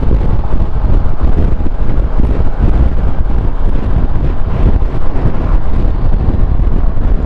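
Loud, steady wind rush buffeting a motorcycle rider's camera microphone at riding speed, with low vehicle rumble beneath it.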